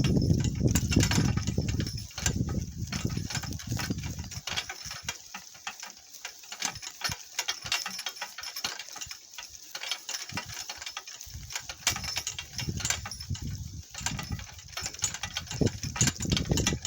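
Donkey cart rolling over rough ground: wheels and frame knocking and rattling in quick irregular clicks, with a low rumble that fades after about two seconds and comes back near the end.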